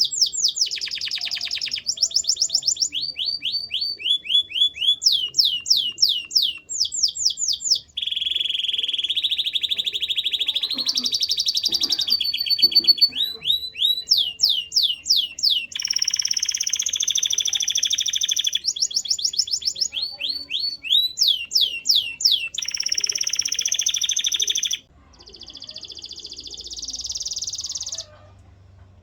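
Canary singing a long song made of runs of rapidly repeated notes: buzzy trills alternate with series of quick downward-sweeping whistles. Near the end it turns quieter with a rising phrase, then stops.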